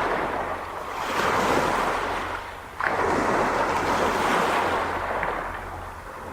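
Sea waves washing in, in repeated surges that build and fade every two to three seconds, with one sudden break about three seconds in.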